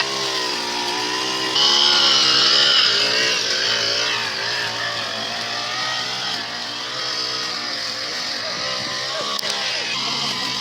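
A motor running steadily, its pitch wavering slightly up and down, a little louder for a couple of seconds near the start.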